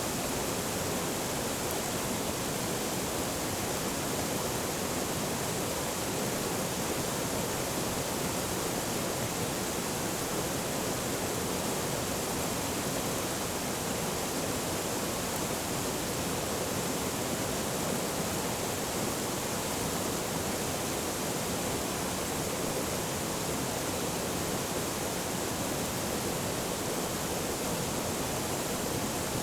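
Forest stream flowing: a steady, even rush of running water that does not change.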